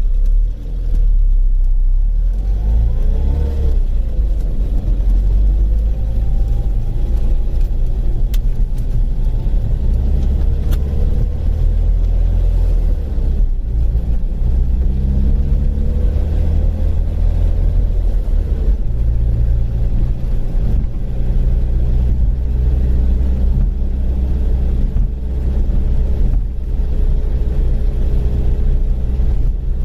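Rover Mini's A-series four-cylinder engine running on the move, its low note shifting several times as speed changes. A fainter whine rises and falls above the engine note and holds a steady pitch near the end.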